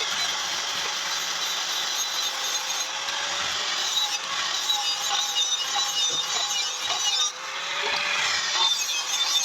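Steady abrasive scraping on an iron tawa being worked by hand, a continuous rasping noise.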